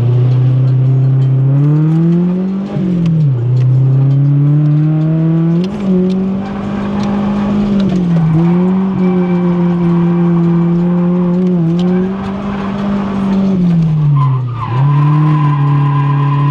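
Drift car engine revving hard, its pitch climbing and dropping again several times as the throttle is worked, with tyre squeal under it.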